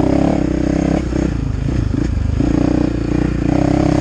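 2020 KTM 450 Rally's single-cylinder four-stroke engine pulling as the bike is ridden along a dirt track. The revs ease off about a second in and come back on steadily after the halfway mark.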